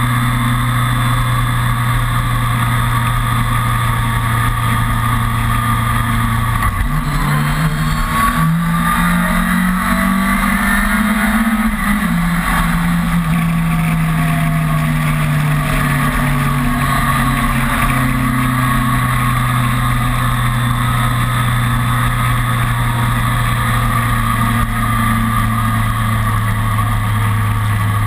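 Kawasaki ZRX motorcycle's inline-four engine running on the road. It holds a steady note, then about a quarter of the way in the pitch jumps and rises as the bike accelerates. It then eases gradually back down to a steady cruising note.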